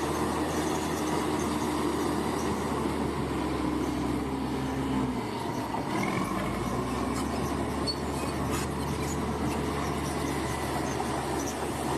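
Bulldozer diesel engine running steadily with its crawler tracks working. The engine note dips briefly about five seconds in, then picks up again.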